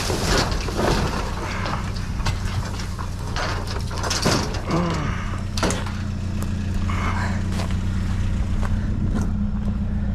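A truck engine idling steadily under scattered knocks, scrapes and rattles of junk being handled, which are busiest over the first six seconds.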